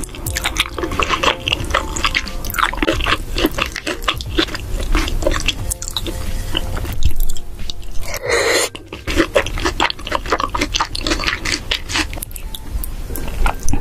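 Close-miked chewing and wet mouth smacking of creamy pasta, full of small clicks, with a short slurp about eight seconds in as cream sauce is sipped from a large spoon.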